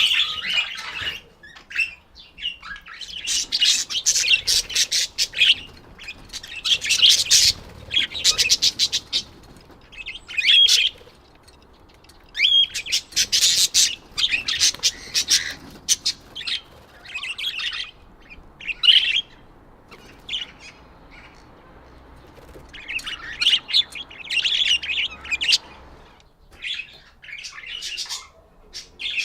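Budgerigars chirping and chattering in bouts of rapid, high chirps, with short pauses between the bouts.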